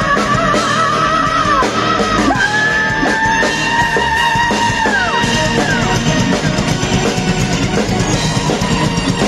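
Heavy metal band playing live in an instrumental break: a lead electric guitar solo of long held, bent notes with vibrato over pounding drums and rhythm guitar.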